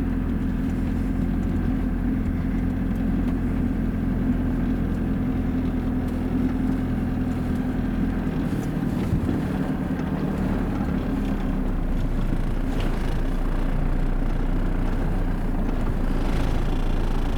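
Campervan's engine running steadily while driving, a low hum over road noise; the engine note shifts about halfway through.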